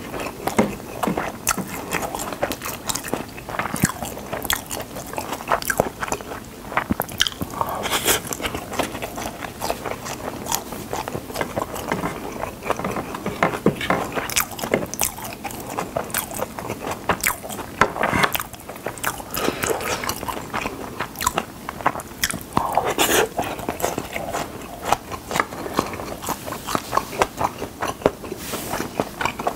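Close-miked chewing of Spam kimchi fried rice: continuous wet mouth clicks and smacks, with occasional scrapes of a plastic spoon and chopsticks on the plate.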